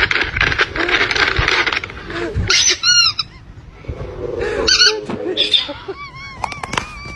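An animal calling: a series of short, high-pitched calls, each rising and falling in pitch, that come faster near the end, after a stretch of loud, noisy sound.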